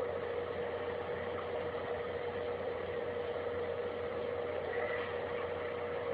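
A steady droning hum holding one constant tone over an even hiss, with no change in pitch or level.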